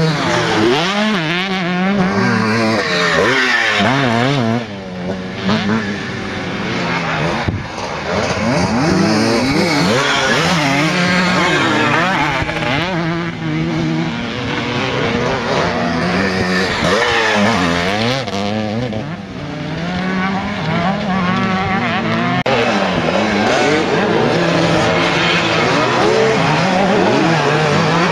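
Several vintage motocross motorcycles racing, their engines overlapping and repeatedly revving up and dropping back as they are ridden around the track, with brief dips about four and a half, seven and a half and nineteen seconds in.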